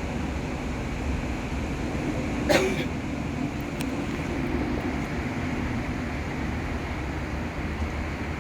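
Steady low background rumble, like nearby traffic, with one brief sharp sound about two and a half seconds in.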